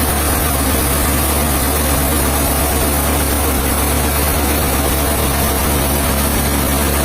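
Sawmill machinery running steadily with a constant low hum.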